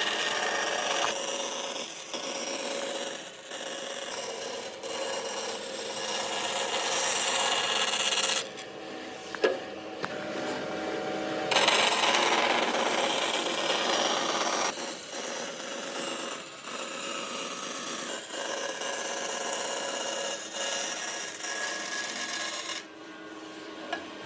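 A power tool working wood, running steadily in two long stretches, with a quieter break from about a third of the way in and a drop near the end.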